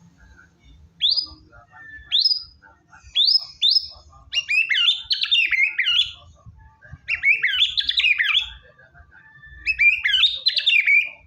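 White-rumped shama (murai batu) in full song: four quick rising whistled notes spaced about a second apart, then three long rapid phrases of varied, tumbling notes with short pauses between them.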